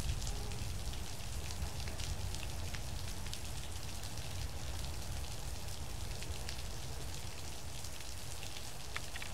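Steady heavy rain falling on the station platform and tracks, with many scattered close drops ticking and a low steady rumble underneath.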